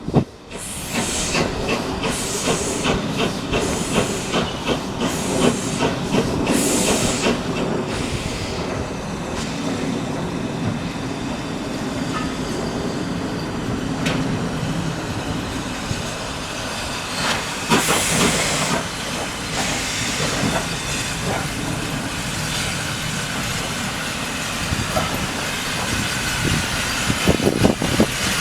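Steam locomotive running slowly into a platform: hissing exhaust puffs about once a second at first, then steady running with wheels clicking over the rail joints. A loud burst of steam hiss comes about 18 seconds in.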